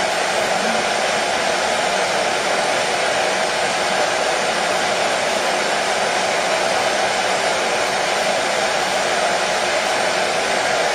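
Hair dryer blowing steadily: an even rushing hiss of fan and airflow with no change in pitch or level.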